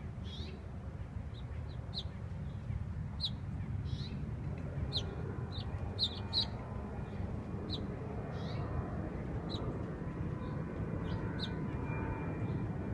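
Small aviary finches giving short, scattered chirps, one or two a second, over a steady low background rumble.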